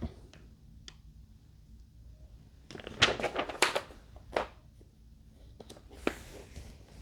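Handling noise from assembling a model airplane: a quick cluster of clicks and rustles about three seconds in, then a few single knocks.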